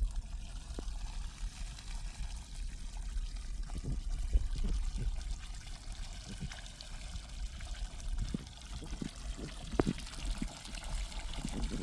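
Water pouring and trickling steadily over a low rumble, with a few faint knocks.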